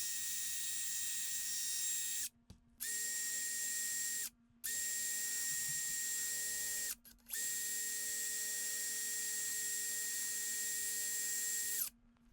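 Power tool spinning a wire wheel against rusted metal to scrub off rust and grime: a steady whirring with a high whine, cutting out abruptly a few times and starting again.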